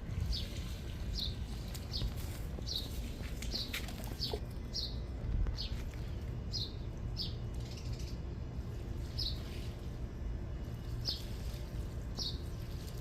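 A small bird chirping repeatedly, short high chirps about once a second, over a low steady rumble.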